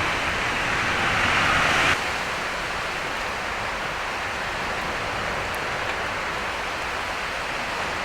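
Steady rushing water noise, louder for the first two seconds, then dropping suddenly to a lower, even level.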